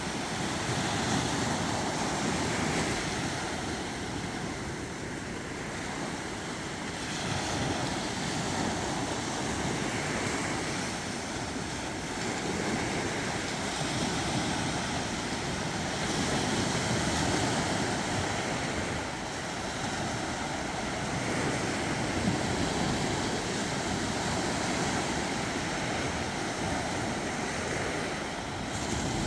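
Sea waves washing onto a shore: a steady rushing wash that swells and eases every few seconds.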